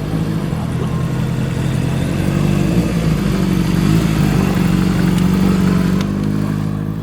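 Motorcycle engine running steadily close by, its exhaust note getting louder a couple of seconds in, holding, and easing off near the end.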